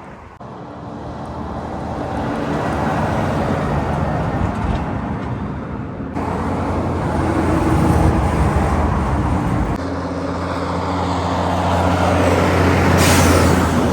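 Highway traffic passing close by: trucks and cars with engine drone and tyre noise, swelling and fading as several vehicles go by one after another, loudest near the end.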